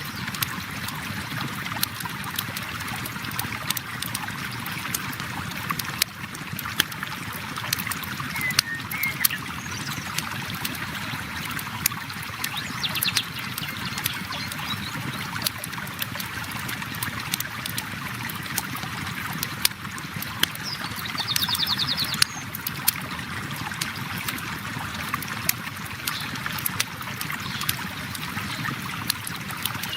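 Steady rush of a flowing river with a campfire crackling in frequent sharp pops, and a few brief high bird chirps.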